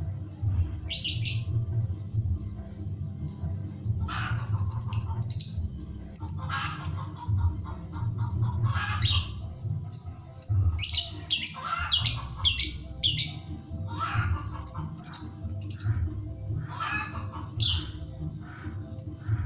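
Lovebird chattering in the rapid, continuous 'ngetik' song: short, sharp high-pitched chirps and squawks, a few at first, then thickening into a dense run from about four seconds in. A low steady pulsing sound runs underneath.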